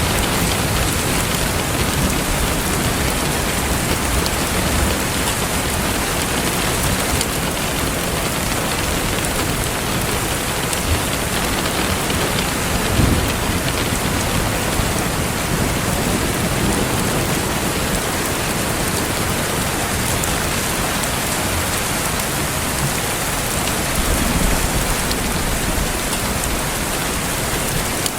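Steady, heavy rain falling, an even hiss without a break. Twice a low rumble swells up under it, about halfway through and again near the end.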